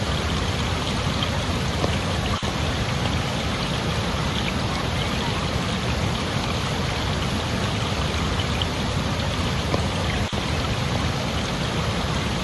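Flowing water rushing steadily, as from a stream, with two very brief dips in level, one a couple of seconds in and one near the end.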